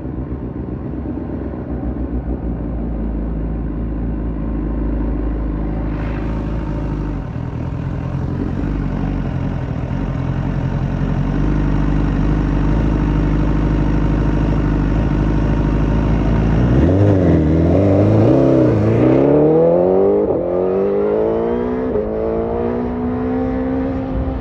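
BMW S1000RR inline-four engine running through an Akrapovic carbon exhaust, holding a steady note. About two-thirds of the way through, the pitch swings up and down a few times, then falls away smoothly and levels off near the end.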